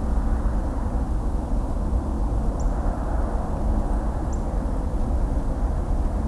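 Distant highway traffic: a steady, even rumble of many vehicles' tyres and engines, heaviest in the low end. Two faint high chirps come through in the middle.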